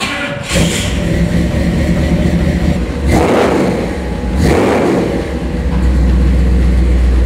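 The 454 cubic-inch Mark IV big-block V8 of a 1957 Chevrolet Sedan Delivery, breathing through ceramic-coated side-exit exhaust, starts up. It is revved twice, about three and four and a half seconds in, then settles into a loud, steady idle.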